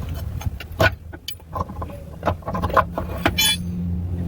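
Metal clinks and knocks of tools and the worn transmission mount being worked loose under the truck, a few of them ringing briefly, over a steady low hum.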